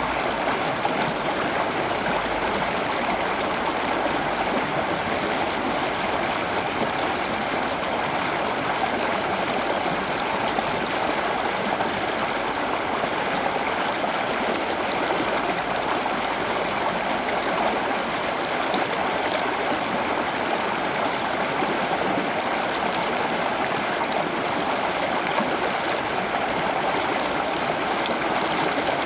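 Steady running water, an even flow with no change over the whole stretch.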